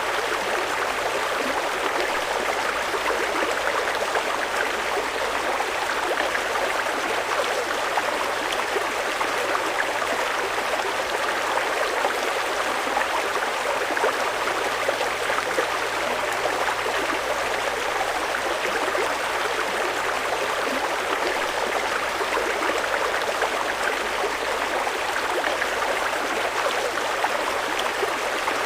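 Fast-flowing mountain river rushing steadily over rocks, an even continuous rush of water.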